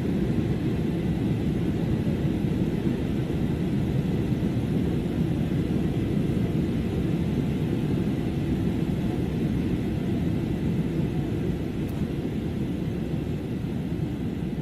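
Steady low rumble of a jet airliner's cabin in flight, from the engines and the airflow over the fuselage, with a faint steady whine above it. It eases slightly near the end.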